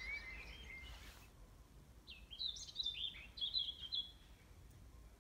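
A small songbird singing a short run of quick, high chirping notes from about two to four seconds in, over a quiet background. A brief soft rush of noise comes about a second in.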